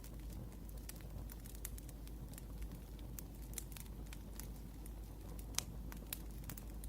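Wood fire crackling, with irregular sharp pops and snaps over a low steady rumble, one pop louder than the rest a little past halfway.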